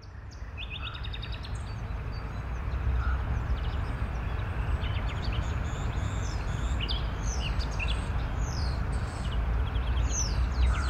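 Birdsong ambience: several small birds chirping, with quick trills and short falling whistles, over a steady low rushing background that fades in over the first two seconds.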